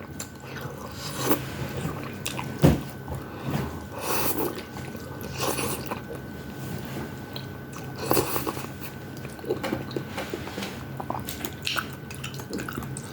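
Close-miked eating sounds: chewing and biting into food with irregular wet smacks and crunchy bites, the sharpest click a little under three seconds in.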